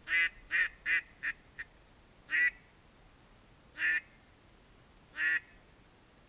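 Duck quacking in a hen mallard's descending cadence: a quick run of five quacks, each shorter and quieter than the last, then three loud single quacks spaced over the next few seconds.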